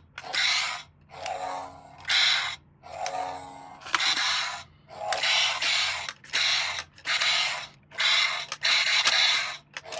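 A run of short scratchy rustles, about one every 0.7 s, as plastic toy packaging is handled and rubbed during unboxing.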